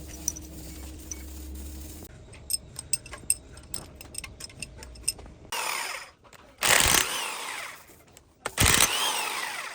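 A power tool run in short bursts, about three in all, after a series of sharp clicks and a low steady hum.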